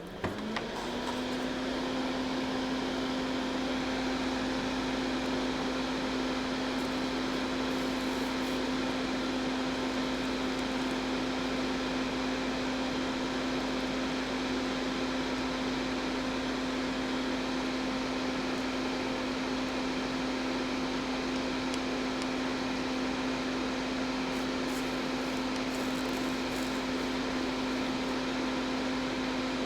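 Electric fan motor switched on, quickly rising in pitch as it spins up, then running with a steady hum and air rush.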